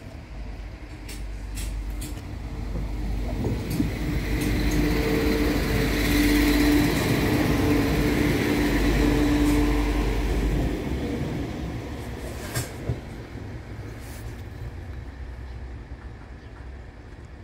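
Diesel multiple unit passing through a level crossing: the train's engine and wheels on the rails grow louder, peak with a steady low hum about five to ten seconds in, then fade as it goes away.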